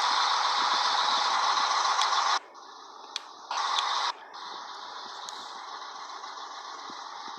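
Compressed air hissing out of a Scania 113 truck's air system. It cuts off abruptly about two and a half seconds in, gives a second short blast about a second later, then settles into a quieter steady hiss.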